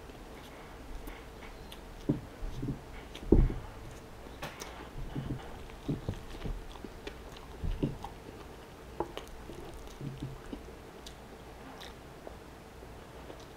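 Close-up mouth sounds of biting into and chewing a large fried chicken sandwich with coleslaw on a soft bun. The bites and chews come irregularly, loudest about three seconds in, and die away after about ten seconds.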